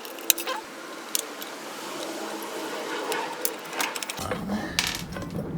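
Screws being worked out of the metal base plate of a vintage Emerson electric fan with a screwdriver, with scattered sharp clicks and small metal clinks, the loudest click about a third of a second in.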